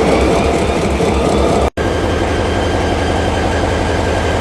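EMD SD40 locomotive's 16-cylinder diesel engine running just after start-up, a steady low drone. The sound cuts out for a split second about two seconds in.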